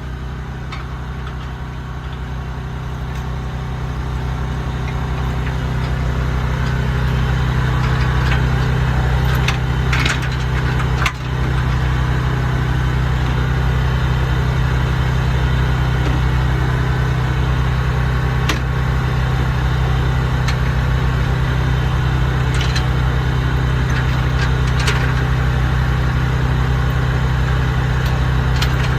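Large truck engine running steadily, getting louder over the first several seconds, with a few sharp clanks along the way.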